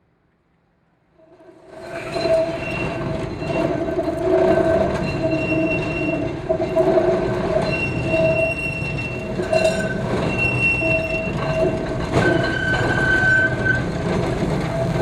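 Vintage Blackpool electric tram running on its rails, the wheels squealing on and off in several high steady tones over the rumble of the running gear. The sound fades in after about a second of near silence.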